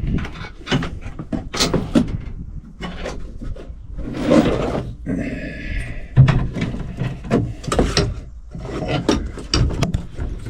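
Hand tools and hardware being handled and packed: irregular clinks, knocks and rustling as sockets, cable clamps and other parts are gathered up, with a longer rustle about five seconds in.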